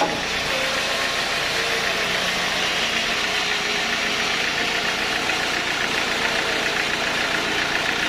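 Sawmill machinery running steadily, a continuous engine-like mechanical noise, with a fast, even chatter growing clearer about halfway through.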